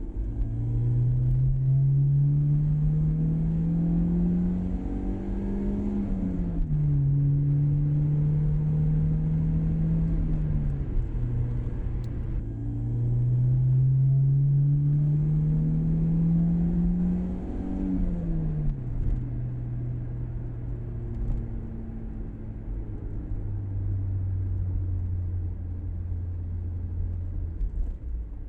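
BMW E36's four-cylinder engine running through a replacement exhaust with a single rear muffler, revving up twice with the note climbing for about five seconds before dropping sharply at an upshift. Between and after the pulls it settles into a steadier, lower drone.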